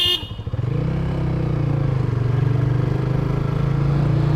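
A brief vehicle horn beep right at the start, then a motorcycle engine pulling away, its pitch rising a little as it picks up speed and then running steady.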